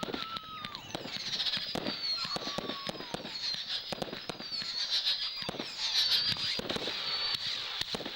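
Fireworks going off: several high-pitched whistles, some wavering and some sliding in pitch, over a rapid crackle of pops and bangs.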